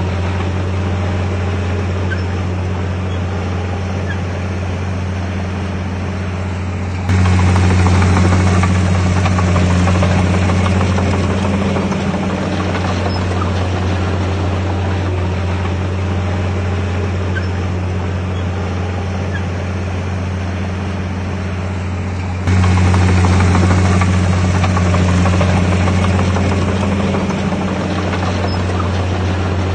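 Komatsu D51PX bulldozer's diesel engine running with a steady low drone. It suddenly gets louder about seven seconds in and again about twenty-two seconds in, easing back over a few seconds each time.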